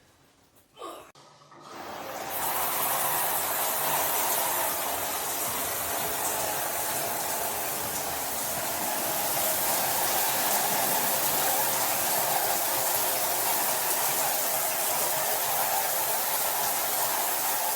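Rain shower head running, water pouring and splashing in a steady hiss that comes on about two seconds in.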